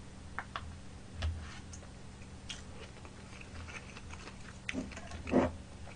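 Faint chewing of food, with a few light clicks of a plastic fork, and a short louder sound near the end.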